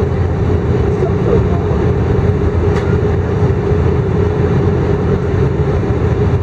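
Steady engine and airflow noise inside an Airbus A319 passenger cabin in flight: a constant low rush with a steady hum over it.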